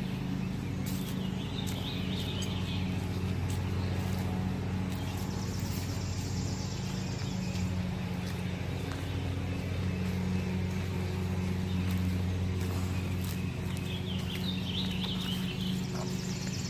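A steady low mechanical hum, like a motor or engine running, throughout. Short bursts of bird chirping come about two seconds in and again near the end.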